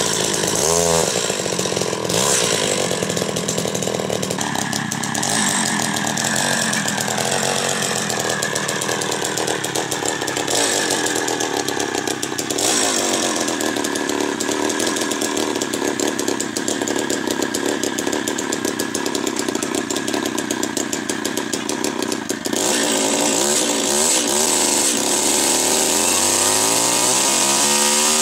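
Small petrol engine running hard at high revs with its pitch wavering under load, revving up and down about a second in and again near the end.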